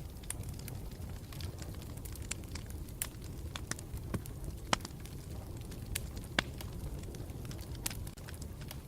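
Campfire burning with a steady low rumble and irregular sharp crackles and pops, a couple of them louder, at about the middle and two-thirds of the way through.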